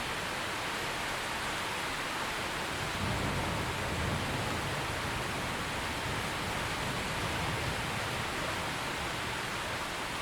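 Steady heavy rain falling, with a low rumble of distant thunder rolling in about three seconds in and lasting several seconds.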